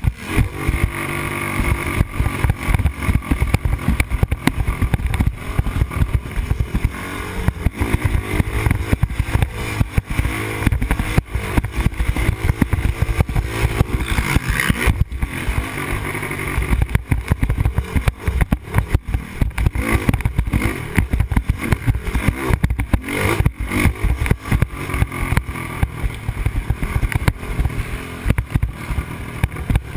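Yamaha Raptor 250 quad's single-cylinder four-stroke engine revving up and down continuously as it is ridden hard round a motocross track, heard from a helmet camera with constant wind buffeting and knocks.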